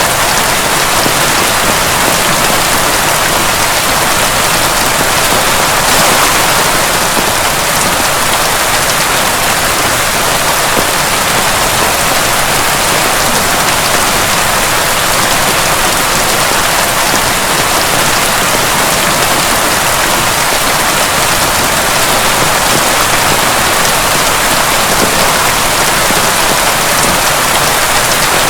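Heavy rain falling steadily: a dense, even hiss of countless drops with no breaks.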